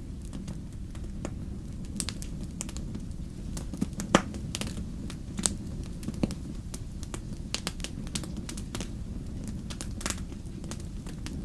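Wood fire crackling in a fireplace: a steady low rush of flames with irregular sharp pops and snaps, the loudest about four seconds in.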